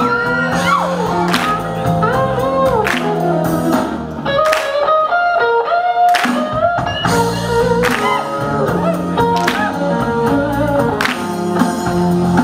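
Blues song playing, an instrumental passage with a lead guitar bending its notes over bass and drums.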